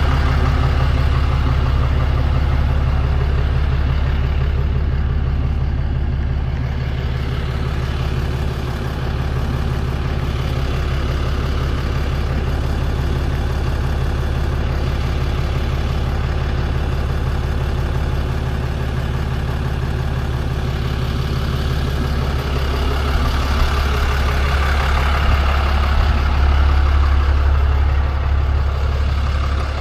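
Tow truck engine idling steadily with a deep, even hum.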